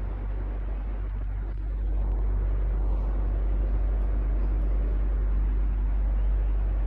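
Electric fan running steadily: an even rush of air over a strong low hum, getting slightly louder about two seconds in.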